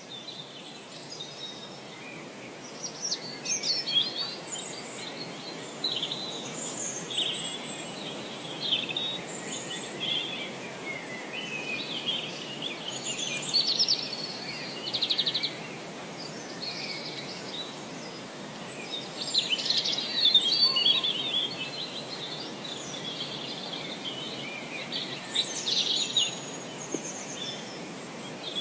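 Several songbirds chirping and trilling, with short overlapping calls throughout, over a steady rushing background noise.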